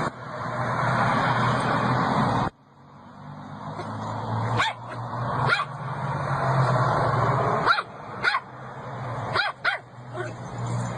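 A dog barking in short, sharp barks, about seven of them at irregular spacing, starting about four seconds in. Before that, steady noise breaks off abruptly at an edit, and a low steady hum runs under the barks.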